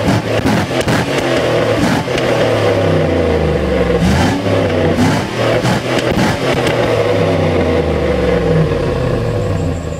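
Chevrolet Suburban's V8 exhaust, the engine revved up and let fall back again and again in a string of blips, dying away at the end.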